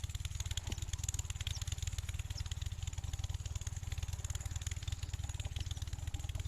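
8 hp Kirloskar diesel pumpset engine running steadily, with a rapid, even exhaust beat.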